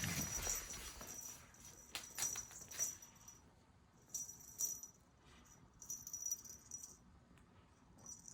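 A cat toy rattling as it is shaken in short bursts, about five shakes each up to a second long, with a high ringing note through each shake.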